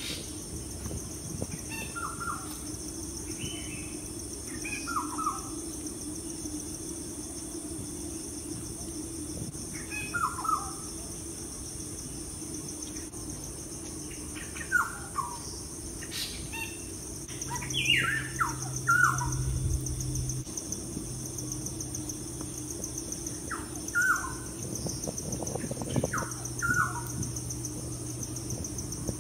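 Bird giving short downward-sliding chirps, singly and in quick pairs, every few seconds, with a busier run about two-thirds of the way in, over a steady high insect trill.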